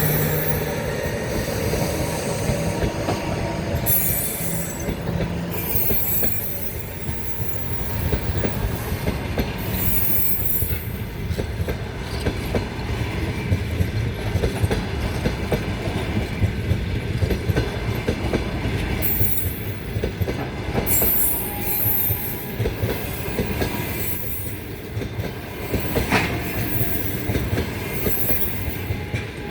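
Express passenger train departing behind an EP2K electric locomotive, the coaches rolling past with a steady rumble and quick clicking of wheels over rail joints. High-pitched wheel squeal comes and goes several times.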